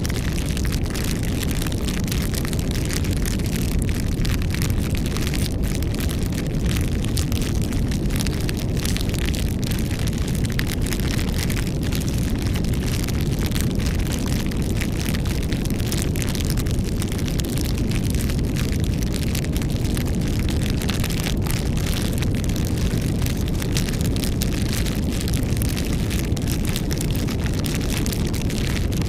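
Campfire burning steadily, with a low rumble of flames and constant irregular crackling and popping of the wood.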